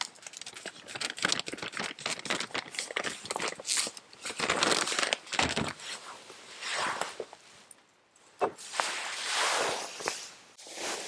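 Wood campfire crackling with many sharp pops, with longer hissing swells in the middle and near the end.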